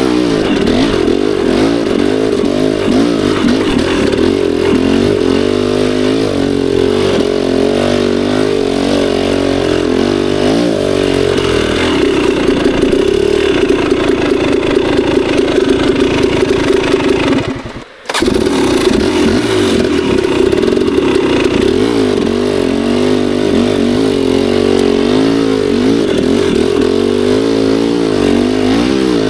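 Two-stroke KTM 300 dirt bike engine under trail riding, its revs rising and falling constantly, held steadier for a few seconds in the middle. The sound drops out for a split second about eighteen seconds in, then the engine carries on.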